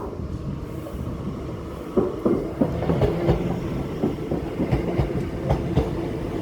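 Train running along the track, its wheels clacking over rail joints from about two seconds in, over a steady low hum and rumble.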